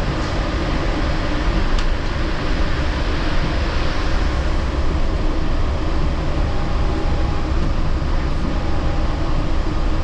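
Steady running noise heard inside a Yurikamome Line car: the rumble of the train's rubber tyres on the concrete guideway, with a faint hum of the motors and ventilation.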